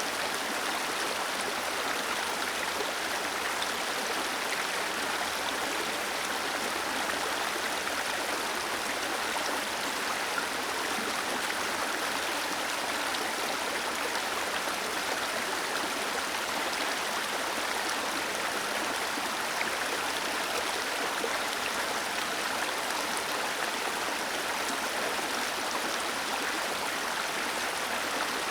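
Small waterfall cascading over rocks, a steady, even rush of water with no change in level.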